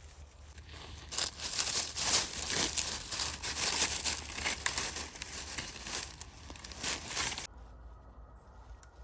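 Dense crinkling and crumpling that starts about a second in and cuts off abruptly near the end.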